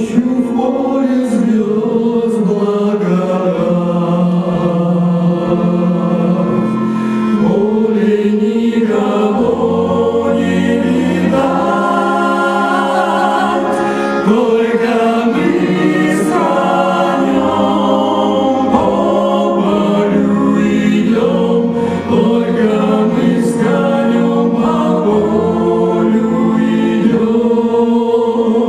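Cossack folk ensemble's mixed choir singing a slow song in several-part harmony, with long held notes.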